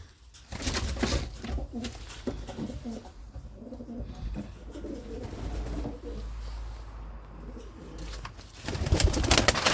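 Racing pigeon cocks cooing, several overlapping calls, with a burst of rapid clattering near the end.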